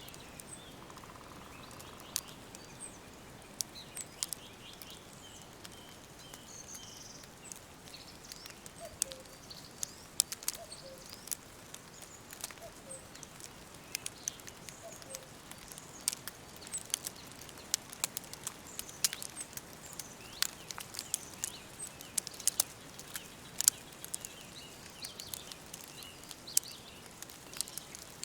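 Woodland ambience: a steady soft hiss with scattered short bird calls, including a quick run of high notes about five seconds in, and sharp crackling clicks that come more often in the second half.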